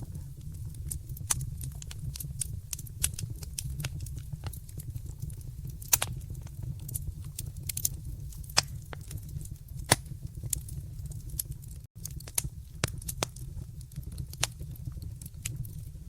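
Wood fire in a fireplace crackling: irregular sharp pops and snaps over a steady low rumble, with a few louder pops about six and ten seconds in. The sound cuts out for an instant near twelve seconds in.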